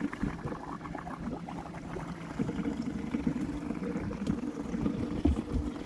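A fishing boat out on the water: a steady low hum with water noise and a few light knocks.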